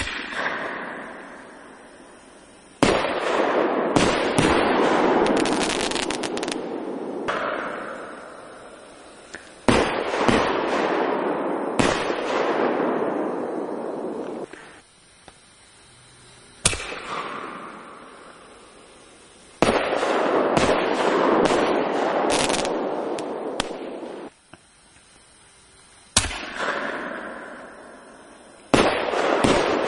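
Fireworks battery of 1.9-inch (48 mm) shells firing about eight times, every few seconds. Each shot is a sharp bang followed by several seconds of hissing crackle from the shell's burst effects, dying away.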